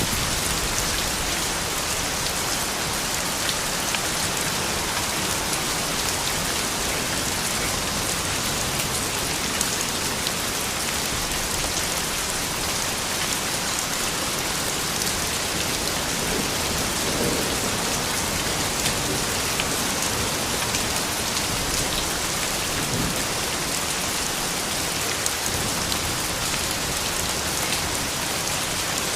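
Steady soft rain falling, an even hiss with fine drop ticks throughout.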